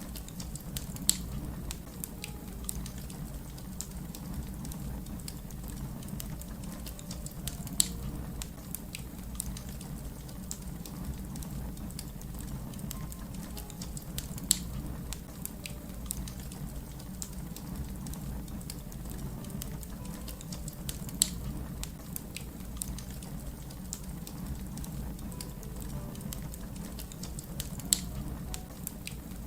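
Wood fire crackling: a steady low rumble of flames with many small ticks and a sharper pop about every seven seconds.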